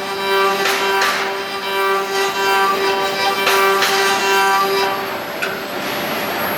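Four-axis CNC wood lathe running: a steady motor whine holds one pitch and stops about five seconds in, while the cutter strikes the wood in irregular sharp knocks.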